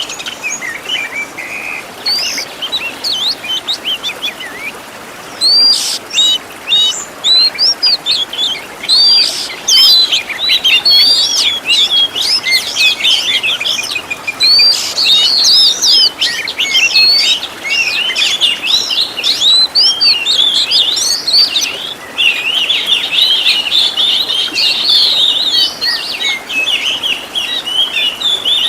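Oriental magpie-robin (kacer) singing a fast, continuous song of high chirps and sweeping whistles, packed with 'isian', calls of other birds that it has learned to mimic, with a few short pauses.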